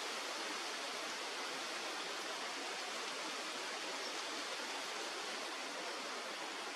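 Steady rushing of a stream's flowing water, an even hiss with no breaks.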